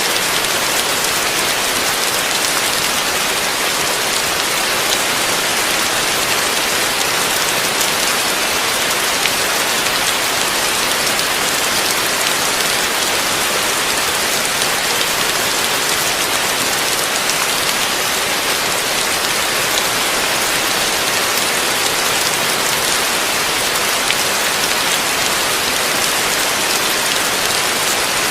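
Heavy rain falling in a steady, dense downpour, with no thunder or separate drops standing out.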